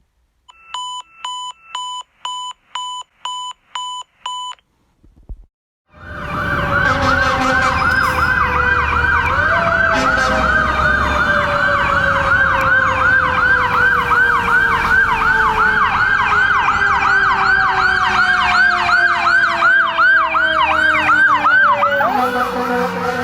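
Nine short electronic beeps in quick succession, then about six seconds in a fire engine's electronic siren starts on a fast yelp, wailing up and down about three times a second. Under it a second, lower siren tone slowly falls in pitch, jumping back up twice, over the truck's engine rumble.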